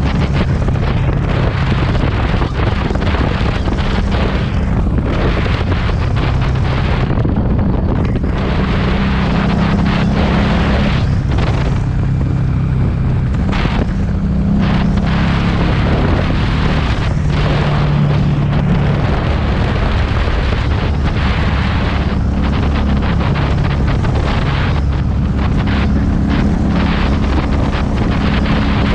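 Heavy wind buffeting on the microphone of a riding motorcycle, with the Harley-Davidson Street 500's V-twin exhaust note running underneath. The engine pitch rises and falls as the bike changes speed.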